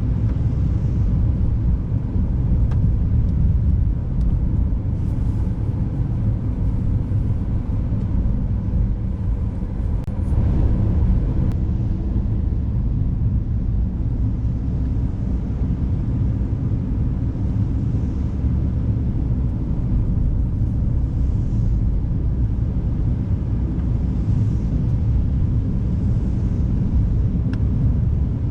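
Steady low rumble of a car driving, engine and tyre noise on a snow- and ice-covered road, swelling briefly about ten seconds in.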